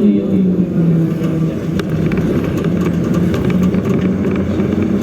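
Truck engine running steadily while driving, a continuous hum over road rumble, its pitch dipping a little about a second in.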